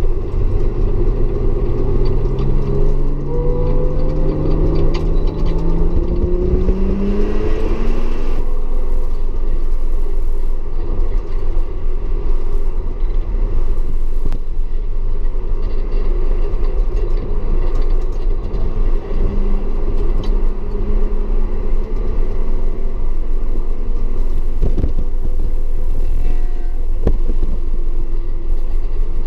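Audi S4's engine under way on track, pulling up through the revs with a rising note for several seconds near the start, over a steady low rumble of car and road noise.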